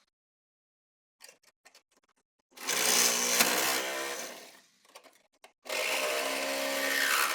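Angle grinder cutting steel, in two bursts of about two seconds each: a steady motor whine under a loud hiss of the disc on metal. A few faint clicks come before the first burst.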